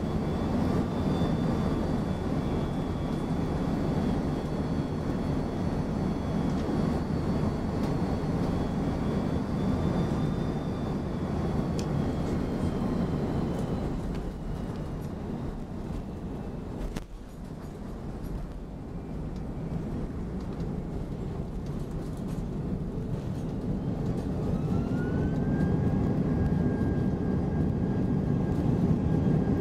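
Airbus A330-200 cabin noise during landing: a steady rumble of airflow and jet engines. Near the end a whine rises in pitch and then holds, as the noise grows louder.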